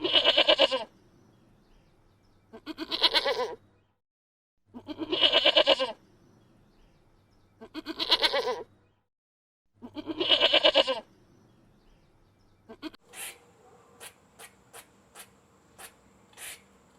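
A goat bleating five times, each call about a second long with a quavering, pulsing voice. These are followed by a run of about nine short, faint, sharp chirps or ticks about half a second apart.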